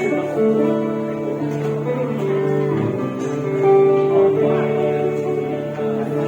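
Music played on acoustic guitar: plucked and strummed notes moving through a melody.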